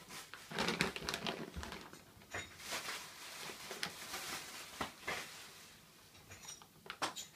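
A beagle rooting through and eating bird seed: irregular rustling, crunching and small clicks, busiest about a second in.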